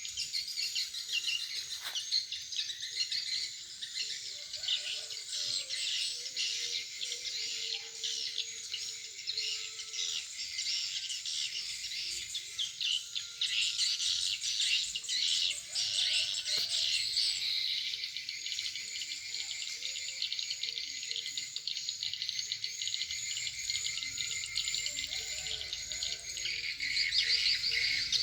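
Swiftlets twittering: a dense, continuous chatter of rapid high chirps, with a run of short, evenly spaced chirps in the second half.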